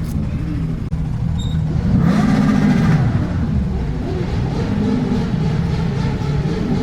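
Motorcycle engines running and revving, with a rev that rises and falls about two seconds in and lesser revs later on.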